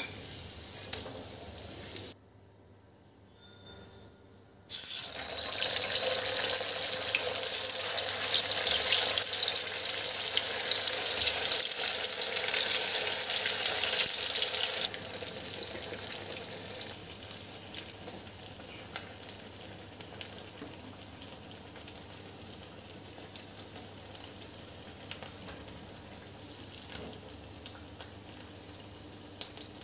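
Sabudana cutlets deep-frying in hot oil: a steady sizzle that drops out briefly about two seconds in. It comes back as a loud, dense crackling sizzle for about ten seconds while a freshly added, still-pale cutlet bubbles hard. It then settles to a quieter sizzle with occasional pops.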